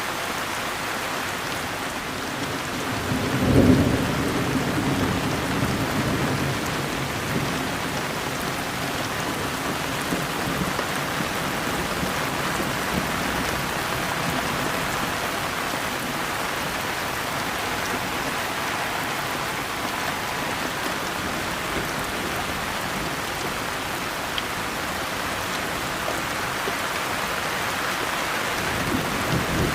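Steady rain, with a roll of thunder about three and a half seconds in that rumbles for a few seconds and fades.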